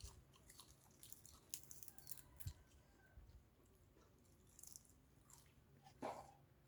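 Faint chewing of papaya salad and raw vegetables, with scattered small mouth clicks.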